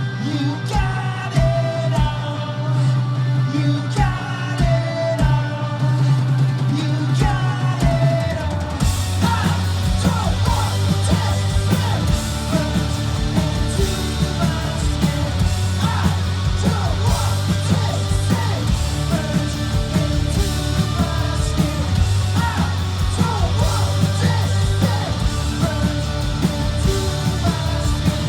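Garage punk band playing live: guitars, bass and drums, with a singer singing and yelling. About eight seconds in, the band comes in fuller and denser.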